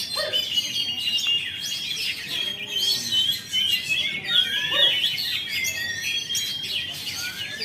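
Oriental magpie-robin (kacer) singing a continuous, varied song of quick whistles, slurred glides and chirps with no pause, the bird in song after finishing its moult.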